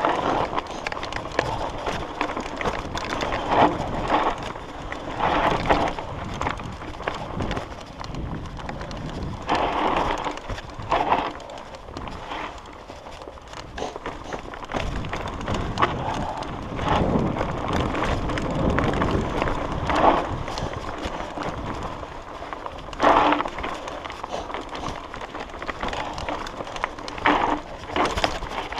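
Mountain bike riding a dirt trail: tyres rumbling and crunching over the ground, with irregular rattles and knocks from the bike as it goes over bumps.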